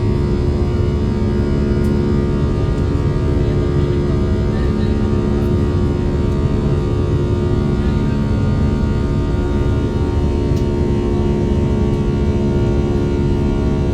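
Four-engine Airbus A340 heard from inside the cabin, its engines running in a steady drone with a cluster of constant hum tones.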